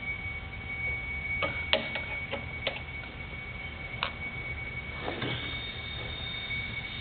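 A handful of light clicks and taps from metal parts of the chop saw being handled and fitted during reassembly, between about one and a half and four seconds in, then a short scrape a little after five seconds. A steady thin high whine runs underneath.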